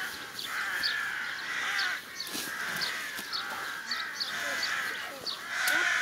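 Birds calling over and over, a call roughly every second, with higher chirps between.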